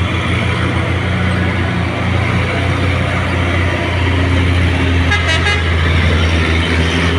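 Mitsubishi Fuso truck's diesel engine running steadily, with a brief warbling horn toot about five seconds in.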